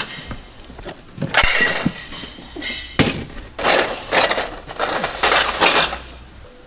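Repeated clinking and clattering of hard items being handled, in several bursts, with a sharp knock about three seconds in.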